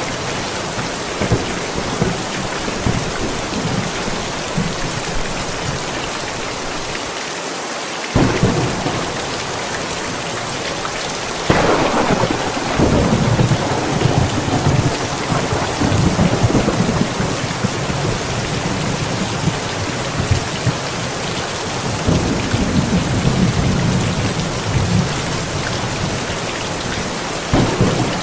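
Steady heavy rain during a thunderstorm, with several rolls of thunder. The loudest is a sharp thunderclap about a third of the way through, followed by several seconds of rumbling.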